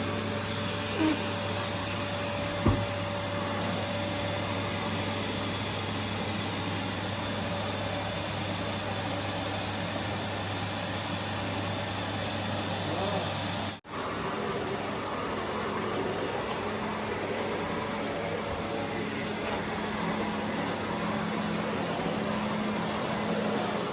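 Vacuum cleaner running steadily, a dense even whoosh with a low hum. It cuts out abruptly for a moment about fourteen seconds in, then carries on the same.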